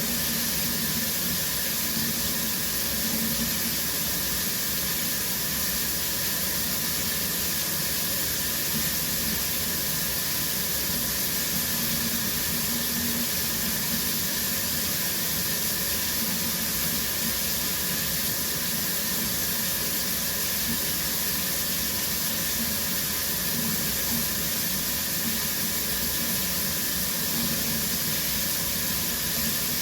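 Shower running steadily: water spraying from the showerhead and splashing in the stall, an unbroken hiss with no pauses.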